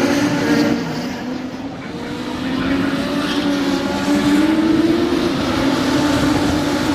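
Racing car engines running on the circuit at speed: the engine note fades briefly about a second and a half in, then grows louder again, rising slightly near five seconds in as cars come past.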